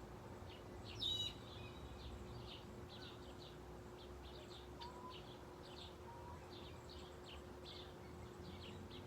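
Small birds chirping in quick short notes throughout, with one louder, sharper call about a second in and a few faint whistled notes later. A faint steady hum runs underneath.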